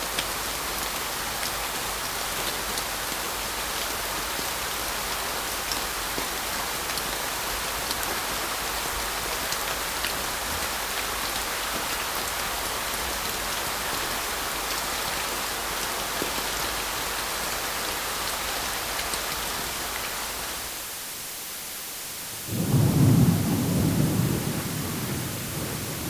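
Steady rain falling, fading out after about twenty seconds. After a short gap a loud, low rumble of thunder starts and dies away over a few seconds.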